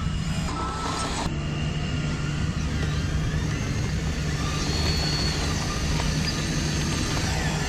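Electric motors and gearboxes of radio-controlled construction models running: a steady low hum with a faint high whine that rises and falls around the middle.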